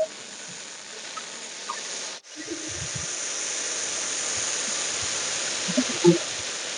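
Snake hissing: a steady, breathy hiss that cuts out for a moment a little over two seconds in, then comes back louder and holds steady.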